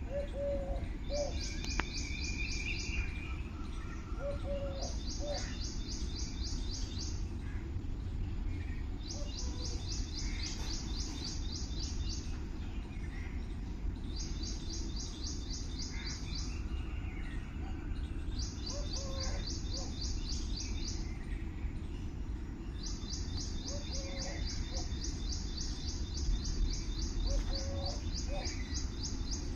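Birds singing in the morning: one bird repeats a fast, high trill lasting one to three seconds about every four seconds, while other birds give shorter, lower calls between the trills. A steady low rumble of background noise runs underneath.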